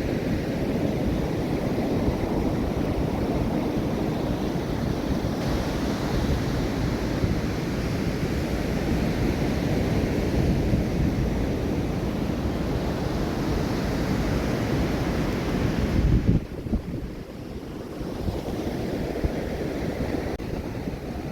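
Ocean surf washing on the beach, a steady rushing noise with wind buffeting the microphone. It swells to a louder rush about sixteen seconds in, then falls away to a quieter wash.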